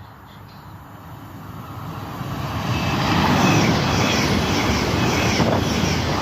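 A train approaching on the line, growing louder over about three seconds and then running past loudly, a rumble with a high whine over it.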